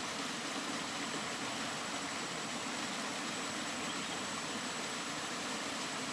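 Steady rain falling, an even hiss that holds without change or break.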